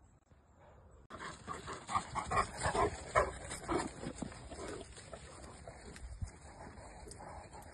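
Central Asian Shepherd dog making short vocal sounds, a quick run of them from about a second in to about four seconds, then quieter ones.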